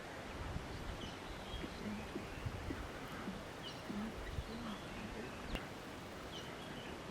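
Outdoor bush ambience: a steady hiss of background noise with scattered short bird chirps and a few faint, short low calls from animals.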